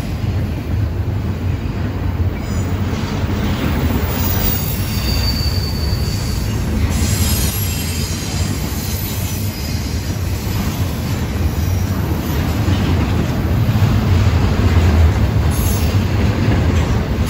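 Double-stack container freight cars rolling past on steel rails: a steady, loud rumble of wheels and cars, with a thin, high wheel squeal a few seconds in.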